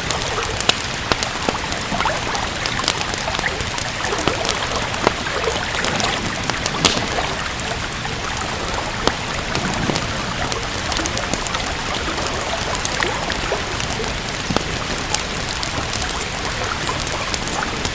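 Steady rain hiss mixed with the frequent sharp crackles and pops of a wood fire.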